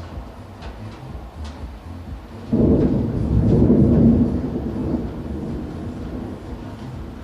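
A clap of thunder about two and a half seconds in: a sudden loud low rumble that swells for a second or so, then fades over the next few seconds.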